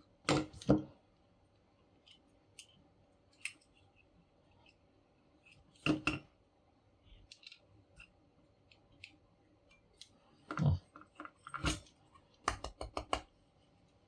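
Clicks and taps of small motor parts being handled and set down on a work surface, coming in scattered groups with a quick run of several clicks near the end.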